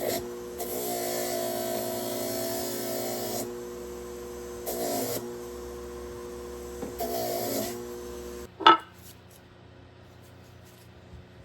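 A small electric power tool's motor runs with a steady buzz, and its sound gets louder and rougher three times as it is pressed against the hammer to clean it up. Its motor stops about eight and a half seconds in, followed at once by a single sharp knock.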